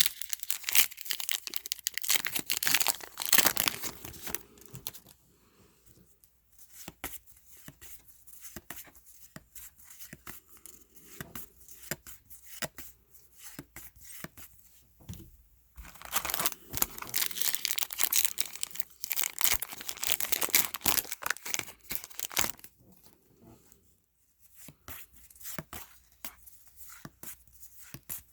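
Trading card pack wrappers being torn open and crinkled, twice: at the start and again past the halfway mark. Between the two, the cards are slid and flicked through the hands, making soft scattered clicks.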